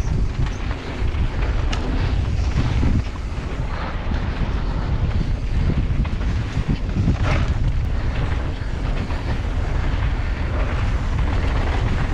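Wind buffeting the microphone while riding a mountain bike on a trail, a steady low rumble with scattered clicks and rattles.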